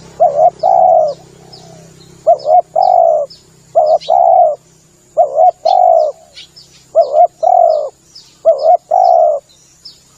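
Spotted dove (tekukur) cooing its three-note call, two short notes and then a longer one, repeated six times at an even pace: the call used as a lure for trapping tekukur. Faint high chirps run underneath.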